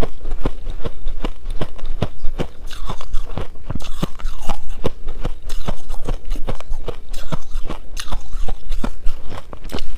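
Shaved ice being chewed close to the microphone: a steady run of sharp, crisp crunches, about three a second.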